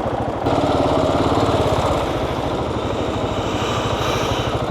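Motorcycle engine running as the bike rides along, a fast steady beat of exhaust pulses, getting louder about half a second in.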